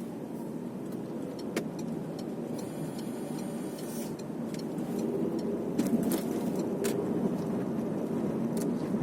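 Car driving, heard from inside the cabin: steady road and engine noise, with scattered sharp clicks and rattles. It grows a little louder about halfway through.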